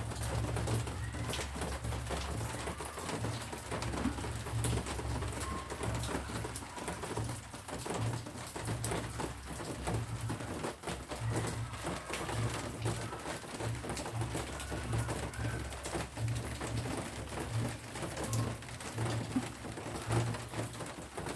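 Pigeon cooing over and over, over light rain dripping and pattering in short ticks.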